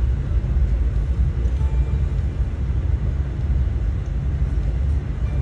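Steady low rumble of a moving passenger train, heard from aboard as it rolls along.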